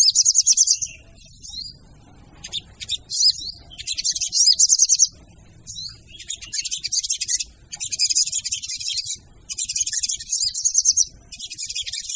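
Female ruby-cheeked sunbird (sogon) calling: repeated bursts of rapid, high chittering, each about a second long, with short pauses between them.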